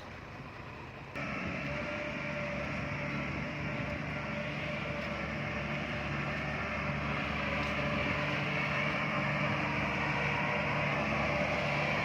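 Heavy earthmoving machine's diesel engine running steadily under load. It jumps louder about a second in, then swells gradually.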